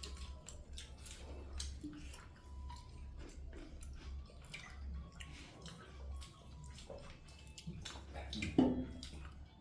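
Close-up eating sounds: wet smacking and clicking of a mouth chewing food, with a short louder sound near the end.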